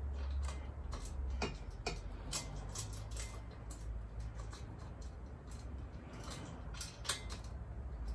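Scattered light metallic clicks and ticks as a bolt and washer are worked into the exhaust silencer's mounting bracket by hand, over a low steady hum.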